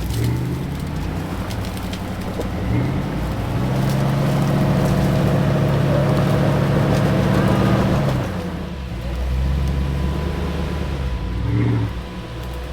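Off-road vehicle engine revving: the pitch climbs about three seconds in and holds high for several seconds, drops back, then rises briefly again near the end.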